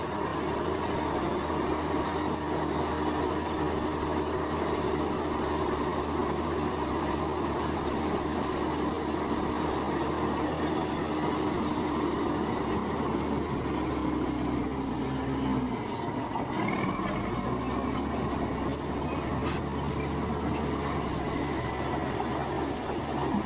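Heavy earthmoving machine's diesel engine running steadily under load. About 15 seconds in, its pitch drops, then picks up again a second later.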